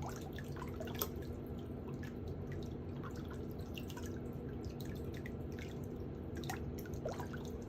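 Water dripping: an irregular patter of small drops, some with a quick upward plink, over a steady low hum, with one sharper click about a second in.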